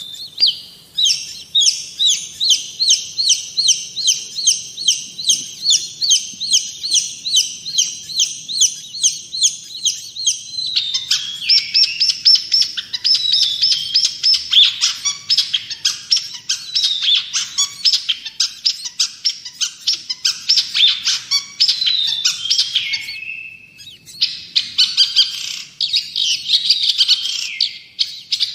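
Long-tailed shrike (cendet) singing a loud, energetic song. It opens with an even run of sharp repeated notes, about three a second. About 11 s in it changes to a fast, varied chattering with falling, gliding notes, pauses briefly about 24 s in, then carries on.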